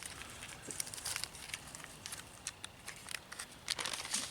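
Kool-Aid drink-mix packets being handled and torn open: irregular crinkling and tearing rustles, with a cluster of sharper crackles about a second in and again near the end.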